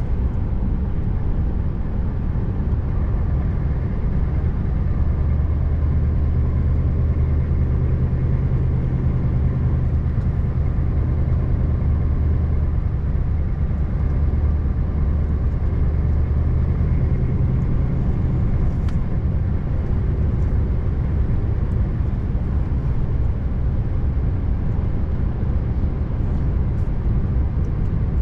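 Scania R590 V8 truck engine droning steadily with road noise while driving; its low hum grows stronger from about five seconds in and eases off again at about eighteen seconds.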